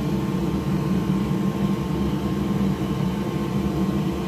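Steady low machine hum, even in level with no starts or stops.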